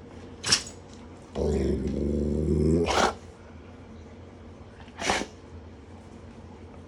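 Alaskan malamute giving one drawn-out, pitched grumbling vocalization about a second and a half long, starting about a second and a half in, with short sharp breathy bursts before, at the end of, and a couple of seconds after it. It is the dog's demand for food.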